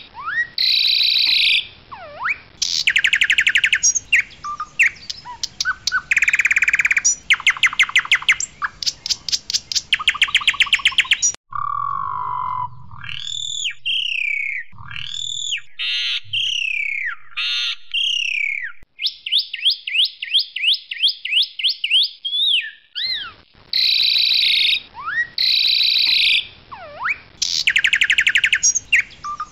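Asian pied starling singing loudly: a varied song of fast repeated notes, whistled notes that slide up and down in pitch, and a rapid trill. The sound changes abruptly about a third of the way in and again near the end, as if separate takes were spliced together.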